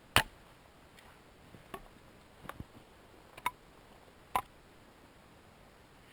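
A small hatchet striking deadwood: about five sharp, irregularly spaced knocks, the first the loudest, as firewood is trimmed.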